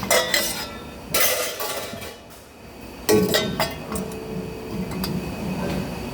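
Metal parts clinking and knocking together as they are handled, several separate knocks each followed by a short metallic ring.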